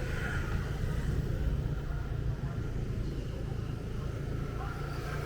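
Motorbike engine running steadily at low speed, a continuous low rumble, with street noise around it.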